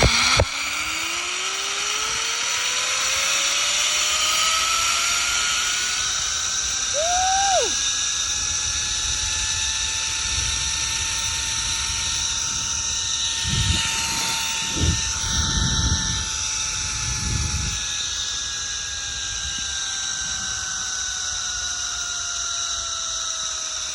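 Zip line trolley pulleys running along the steel cable: a whine that climbs quickly in pitch as the rider picks up speed, holds high, then slowly drops as the rider slows, over steady wind rush. A few low thumps about midway.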